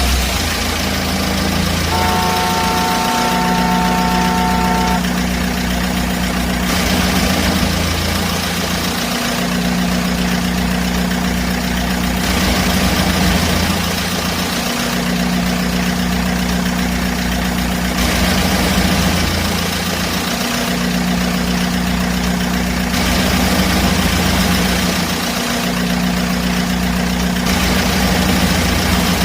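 Vehicle engine idling steadily, laid down in segments that switch abruptly every few seconds. A held, higher tone sounds over it from about two to five seconds in.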